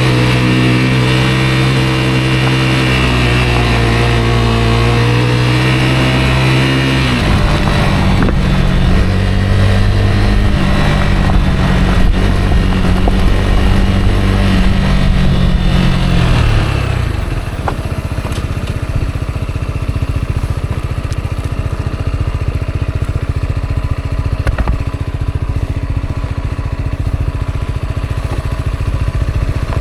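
Rieju Aventura 125 single-cylinder engine running under way, holding steady revs that shift at about 7 seconds, then dropping to a lower, rougher note at about 17 seconds.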